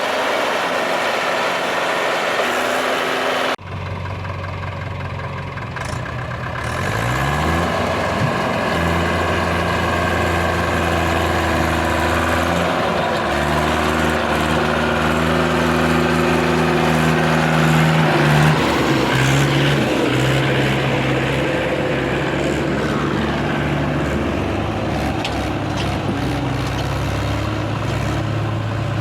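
JCB 3DX backhoe loader's diesel engine running, with an abrupt change in the sound about three and a half seconds in. The revs climb a few seconds later and then rise and fall several times as the machine works.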